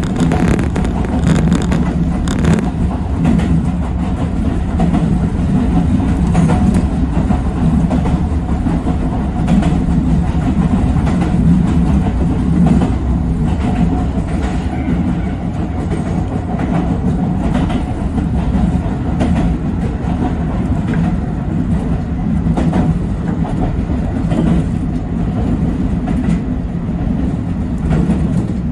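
Yoro Railway 7700-series electric train running along the line, heard from behind the driver's cab: a steady low rumble with scattered clicks of the wheels over the rails.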